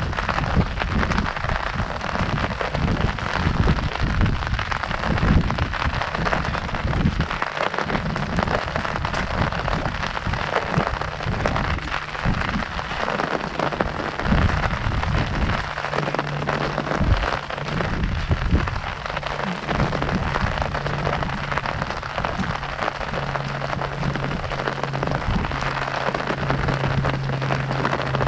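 Heavy rain falling on a large umbrella overhead: a dense, steady patter, with uneven low thumps beneath it. A low steady hum comes in about halfway through and grows toward the end.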